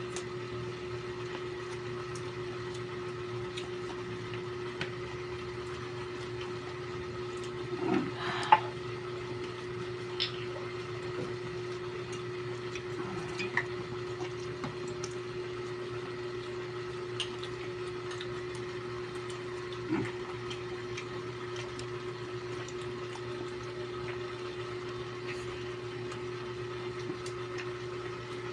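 Steady hum of a small electric motor, with scattered faint clicks and taps and a brief louder clatter about eight seconds in.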